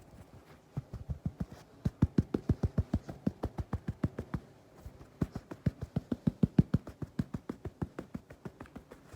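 Rapid tapping on a cleaning item, about seven dull knocks a second, in two quick runs with a short break near the middle.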